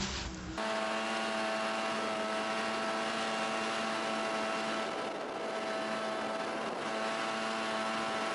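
A steady motor hum holding one fixed pitch, starting about half a second in and running evenly on.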